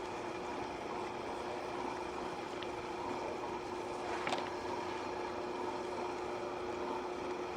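Water heating toward a boil in a small cup over a homemade soda-can alcohol stove: a steady noise of the flame and water beginning to simmer, under a faint constant hum. A single light tick sounds about four seconds in.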